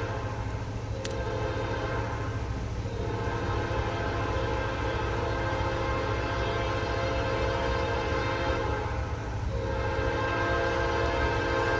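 Locomotive horn sounding long, steady blasts, broken briefly twice, over the low rumble of the passing train.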